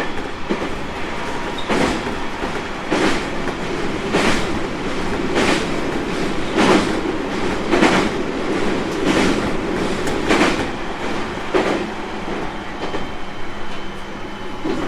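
JR East 701 series 1000-subseries electric train running, its wheels clicking over rail joints in a steady beat about once every 1.2 seconds. The clicks stop near the end, leaving a smoother running noise.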